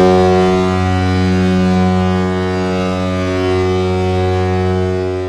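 A single low, steady drone-like tone, held at one pitch for several seconds and slowly fading.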